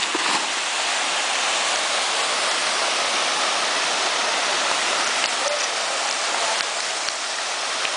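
Waterfall: falling water rushing steadily, a constant hiss-like roar of water.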